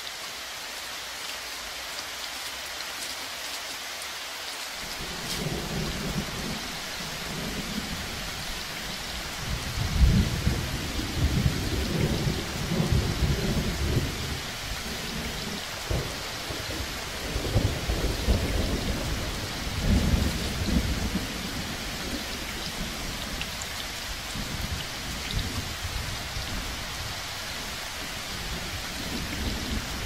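Steady rain with rolling thunder, the low rumbles coming in about five seconds in and peaking around ten and again around twenty seconds in.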